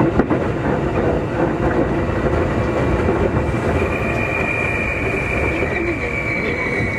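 Running sound inside a Keikyu 2000 series electric train car: wheels rumbling and clattering on the rails, with a knock just after the start. About four seconds in, a thin high tone comes in and slowly drops in pitch.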